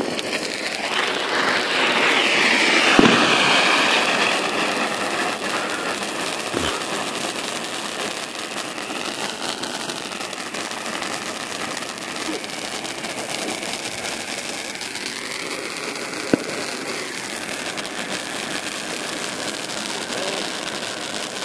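A firework burning with a loud rushing hiss that swells over the first few seconds and then carries on steadily, with a faint wavering whistle in it and a couple of sharp pops.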